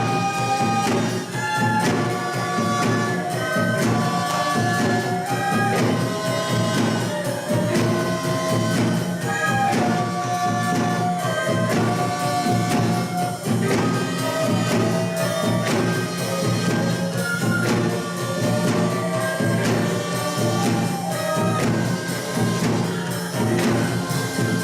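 Korean traditional music ensemble playing a melody of held notes over steady percussion.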